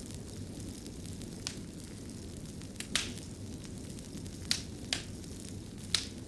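Wood fire crackling in a stone fireplace: a steady low rumble and hiss with a few sharp pops, the loudest about three, four and a half, and six seconds in.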